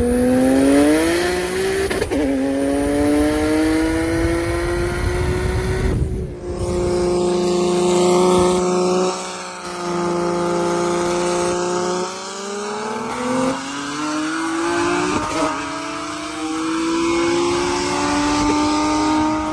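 Turbocharged Nissan 370Z's V6 engine pulling hard under acceleration. Its pitch climbs steadily, drops suddenly several times as it shifts gears, then climbs again.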